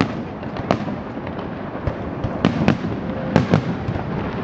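Fireworks display bursting: a run of sharp bangs, several of them in close pairs, over a steady wash of background noise from the show.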